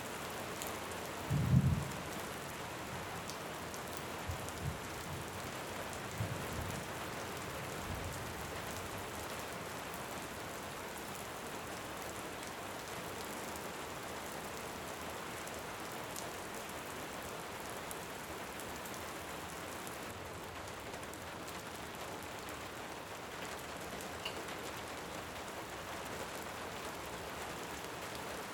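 Steady heavy rain falling. A few short, low rumbles of distant thunder come in the first several seconds, the loudest about one and a half seconds in, then fade into the rain.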